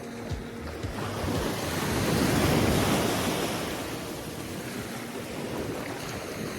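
Sea waves washing up on a sandy beach, one swell rising to its loudest about two to three seconds in and then easing off. Wind buffets the microphone.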